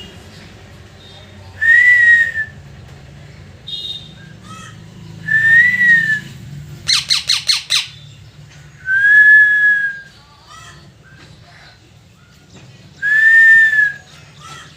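Parrot whistling and chirping: four loud, arched whistles a few seconds apart, with a quick run of about six sharp chirps between the second and third, and softer small calls in the gaps.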